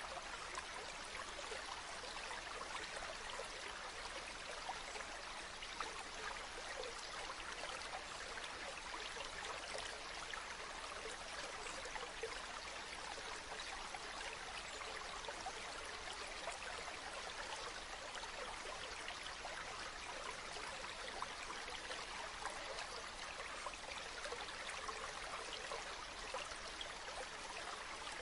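Running water flowing steadily, an even splashing rush without breaks or changes.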